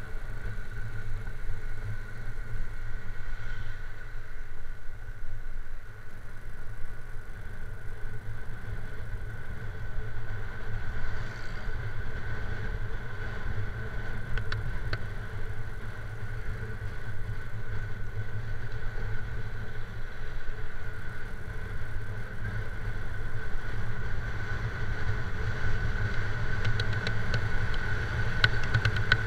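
Yamaha R15's single-cylinder engine running steadily on the move, a low even drone with a thin steady high whine over it.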